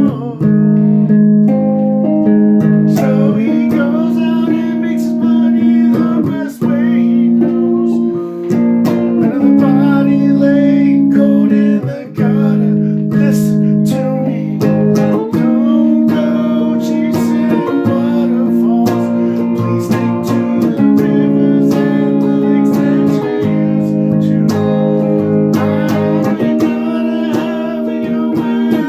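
Guitar playing a song, held chords ringing and changing every second or two, with a few short breaks between phrases.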